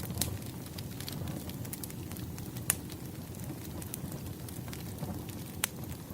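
Wood campfire burning with a steady low rumble and scattered sharp crackles and pops from the burning logs, the loudest pops about a quarter-second in, near the middle and near the end.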